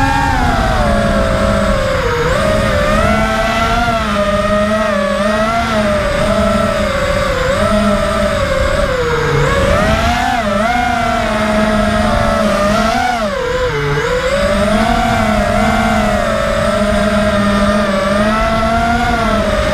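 FPV racing quadcopter's brushless motors whining, the pitch rising and falling continuously with throttle.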